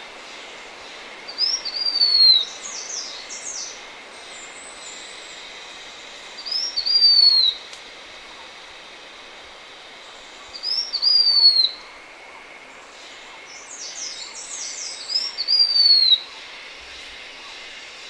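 Blue-winged minla singing: four high, thin whistled phrases about four seconds apart, each a short rising note followed by a longer whistle that slurs downward, the first and last opened by a quick run of chattering notes. A steady hiss of background noise lies under it.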